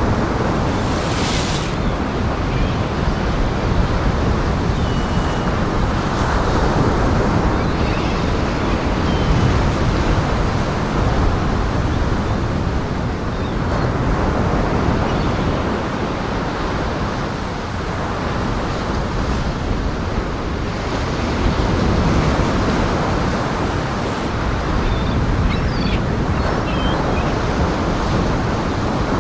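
Waves breaking and washing on a shore, mixed with gusting wind: a steady roar that swells and eases every few seconds.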